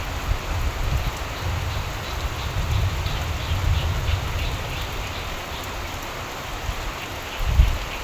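Steady rain falling, with trains of rapid frog calls at times and a low rumble underneath that swells briefly near the end.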